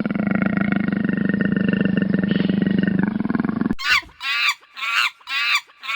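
An animal's long, rough, low call held for nearly four seconds, cut off sharply, then a quick run of short, higher yelping calls, about two a second.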